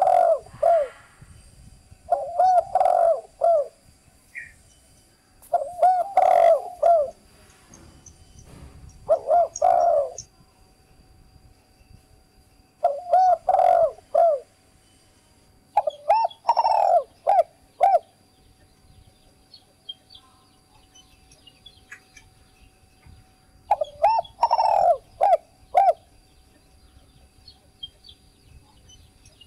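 Spotted dove cooing in short phrases of three or four notes, repeated about seven times with pauses of a few seconds and one longer pause after the middle. Faint chirps of small birds come between the phrases.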